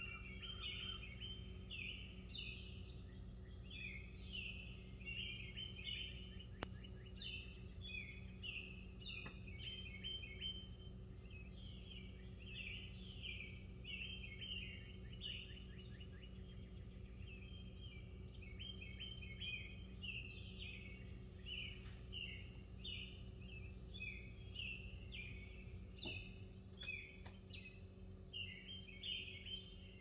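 Faint birdsong: many short chirps, several overlapping, over a steady low hum, with a few soft clicks.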